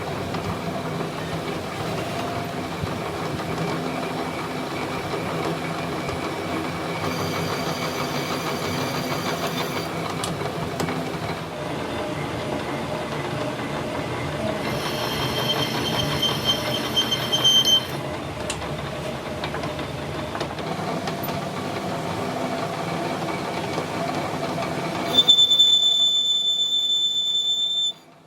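Steady mechanical noise with high-pitched metallic squealing, in two stretches: one about halfway through and a louder one near the end that cuts off abruptly.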